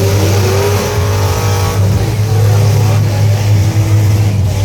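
Several truck engines revving up and down over a steady low rumble, their pitches rising and falling against one another.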